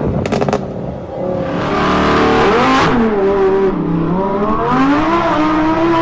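Lamborghini Huracán Performante's naturally aspirated V10 revving. The engine note climbs to about three seconds in, falls away, then climbs again, with a short run of sharp cracks just after the start.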